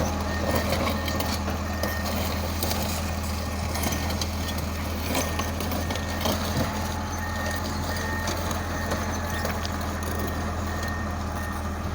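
Komatsu D65EX bulldozer's diesel engine running steadily, with a reversing alarm beeping on and off and a few sharp knocks.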